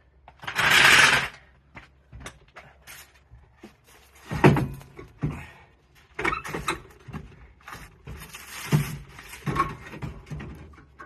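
Clunks, knocks and scrapes of the Kawasaki Mule 610's engine being worked loose and shifted out of its frame. There is a loud rasping scrape about a second in, and heavy knocks around four and a half and again about nine seconds in, with smaller clicks between them.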